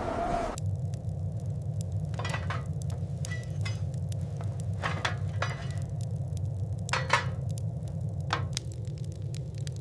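Scattered sharp clinks and crackling ticks, a few louder ringing strokes among them, over a steady low rumble.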